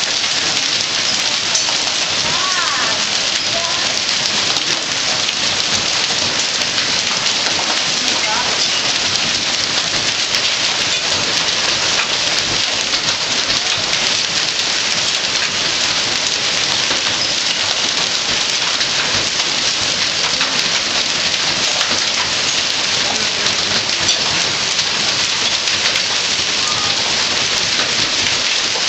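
Hailstorm: hail and rain pelting down hard, a dense, steady clatter of countless small impacts.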